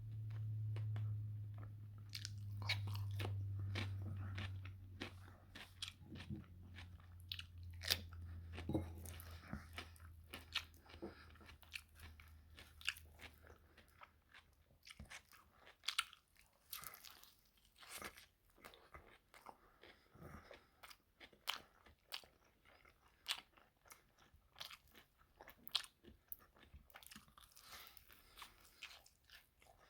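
Close-miked eating: crisp bites and crunchy chewing of fried chicken and cucumber, many sharp crunches one after another. A low hum in the first several seconds fades away.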